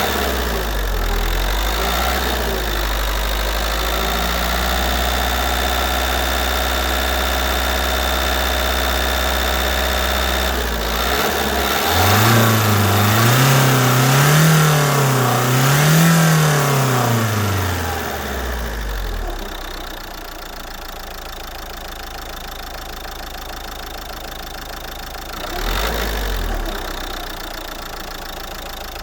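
Renault 1.5 dCi four-cylinder turbodiesel with 302,000 km on it, idling steadily. About halfway through, the throttle is blipped twice, so the revs rise and fall twice in quick succession before settling back to idle. Near the end there is one more short blip.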